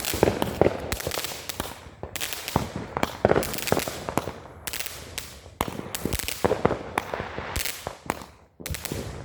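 Consumer fireworks going off: a rapid, irregular string of sharp bangs and crackles, several a second, with a brief lull about eight and a half seconds in.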